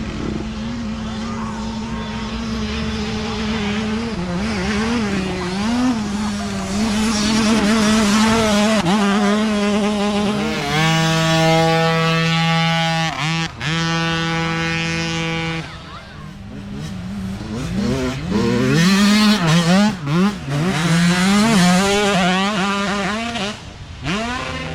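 Several small youth dirt bike engines revving, their pitches rising and falling and overlapping. From about eleven to fifteen seconds in, one engine is held at steady high revs with two brief breaks, before the rising and falling revs resume.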